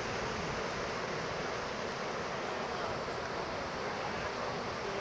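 Steady rush of storm-driven surf breaking on the beach, mixed with wind, as Hurricane Zeta's waves come in.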